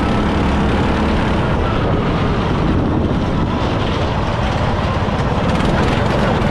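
Riding lawn mower engine running steadily as the mower is driven, a little louder near the end.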